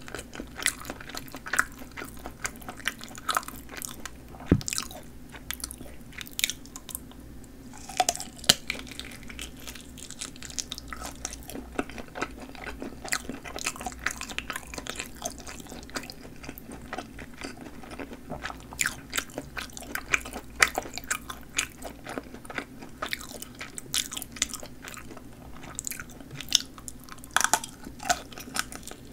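A person chewing snappy-skinned sausage: a steady run of wet, clicky chewing and mouth sounds, with a fresh bite into the sausage near the end.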